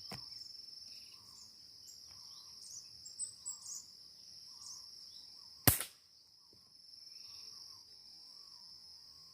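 Insects droning on one steady high pitch, with scattered short bird chirps. A single sharp crack a little over halfway through.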